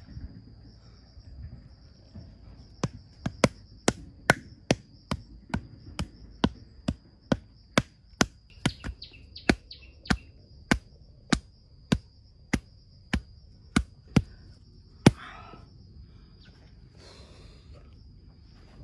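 A hand tool strikes repeatedly in sharp blows, about two a second, starting a few seconds in and stopping with one last harder blow near three-quarters of the way through. Insects keep up a steady high buzz throughout.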